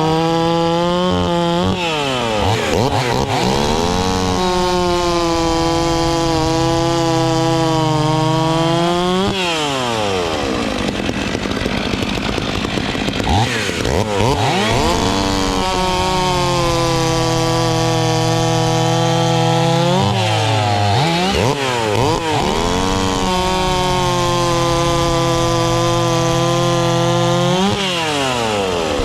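Two-stroke chainsaw running loud at high revs, its engine note dropping and climbing back about five times.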